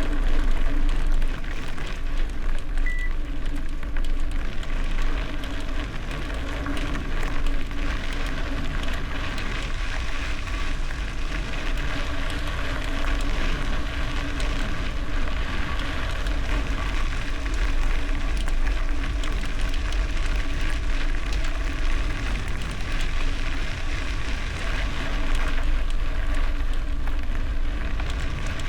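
Bicycle tyres rolling over gravel: a steady crackling crunch, with wind rumbling on the microphone.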